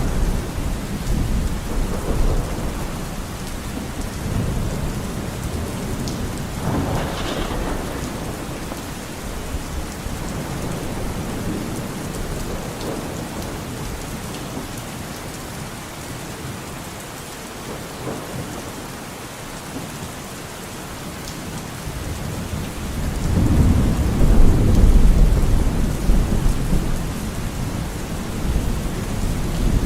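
Steady rain falling on a forest, with thunder rumbling through it; the loudest, deepest roll of thunder builds about three quarters of the way through.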